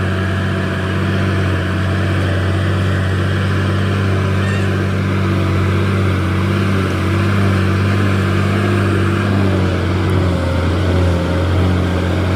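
Heavy diesel engine of a dump truck or bulldozer running steadily at an even speed, with a slight change in its note near the end.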